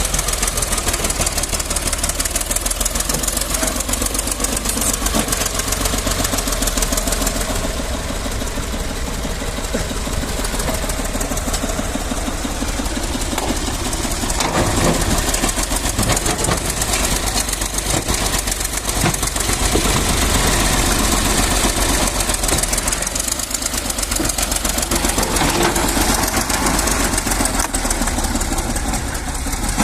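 Tractor's diesel engine running steadily close by.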